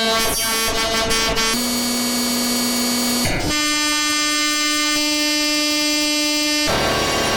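A run of long, held, buzzy electronic tones, each rich in overtones. The pitch steps to a new held note about every one and a half to three seconds.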